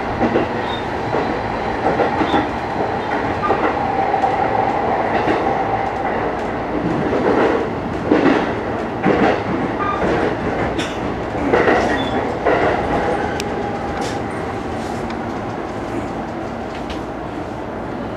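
JR East E233-1000 series electric train running, its wheels clattering over rail joints in irregular sharp knocks above a steady rumble and hum, heard from inside the leading car. It gets a little quieter in the last few seconds.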